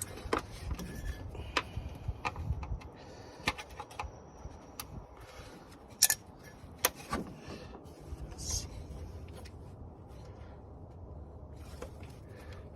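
Scattered sharp clicks and light knocks of plastic wiring-harness clips being worked loose by hand, irregular and a second or so apart.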